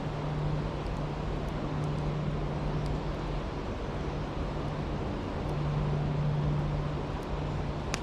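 Steady rushing of a brook with faint crackles of a campfire: a few small pops and one sharper pop near the end. A low hum runs underneath and fades in and out.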